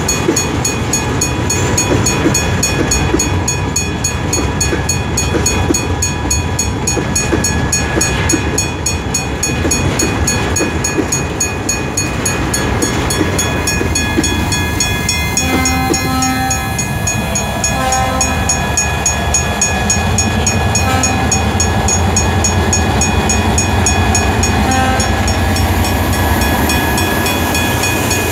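Freight train rolling past, its wagons' wheels rumbling and clattering steadily on the rails. Short squealing tones come and go in the second half.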